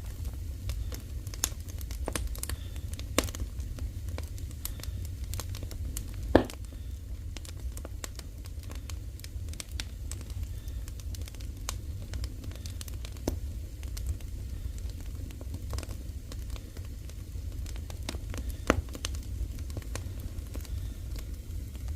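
Firewood burning in a Korean agungi (wood-fired furnace), crackling with scattered sharp pops, the loudest about six seconds in, over a steady low rumble.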